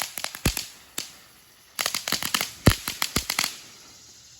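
Crackling consumer firework (the "Sauce" item) going off in rapid sharp crackles: a cluster at the start and one lone pop, a short pause, then a dense flurry about two seconds in that thins out and stops.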